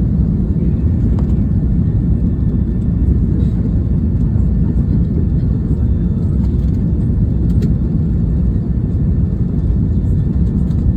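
Steady, low rumble of airliner cabin noise inside a Boeing 757: engine and airflow noise during the approach or landing.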